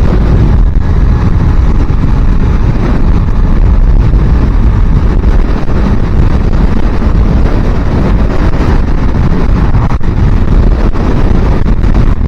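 Wind buffeting a helmet microphone on a moving small-capacity motorcycle, with the engine running at cruising speed underneath. It is loud and steady, with no breaks.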